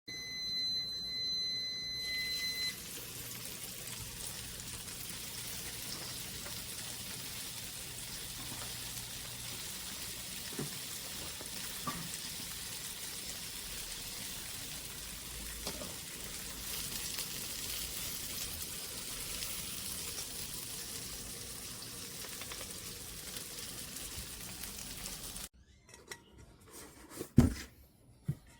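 Food sizzling steadily in a frying pan, cutting off abruptly a few seconds before the end. A few sharp knocks follow, one of them loud.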